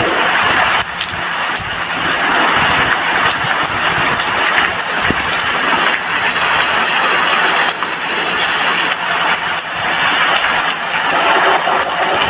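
Steady rain falling, a dense even hiss with occasional sharper taps.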